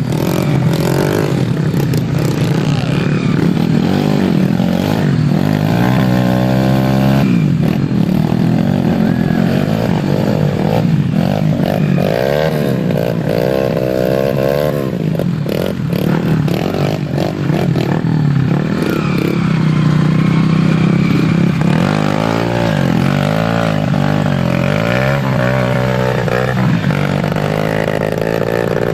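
Dirt bike engines revving hard and repeatedly. The pitch rises and falls as the throttle is worked, and at times more than one engine is heard at once.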